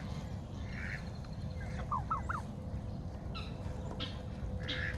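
Backyard poultry flock calling: short scattered calls, with a quick run of about four rising chirps about two seconds in and a few sharper calls near the end, over a steady low rumble.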